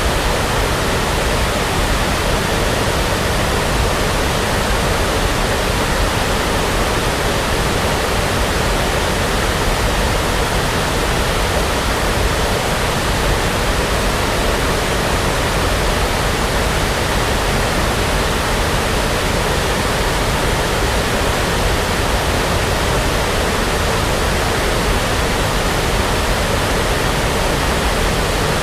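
Synthetic brown noise: a steady, unchanging hiss with no pattern or events.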